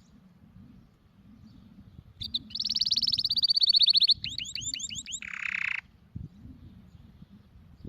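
Domestic canary singing one song phrase about two seconds in: a fast, even trill, then a run of quick swooping notes, ending in a short harsh buzz.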